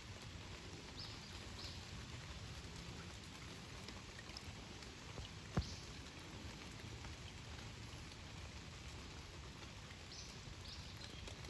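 Steady light rain falling, with a single sharp knock about halfway through.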